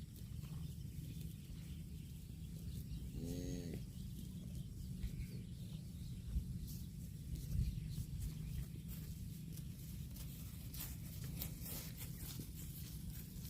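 Cattle grazing: one short, pitched call about three seconds in, then, from about halfway, a run of crisp clicks and crunches of grass being torn and chewed, over a steady low rumble.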